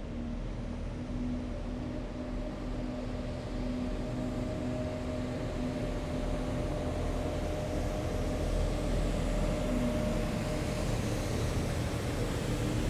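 Heavy military vehicles driving by on a city road: a steady engine drone over road noise, growing gradually louder as they approach.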